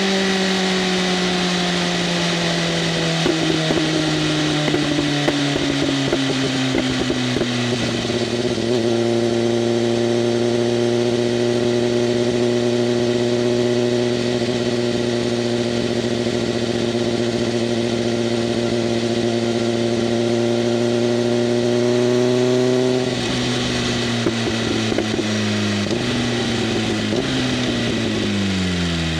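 BMW M1000RR inline-four running through an SC-Project CRT exhaust while riding. Engine speed falls for the first several seconds, then holds steady at a constant pitch. About two-thirds of the way through the note drops off and steps lower again near the end.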